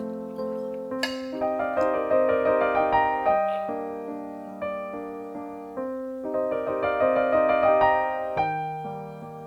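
Solo piano music: single notes and chords struck one after another, each ringing and dying away.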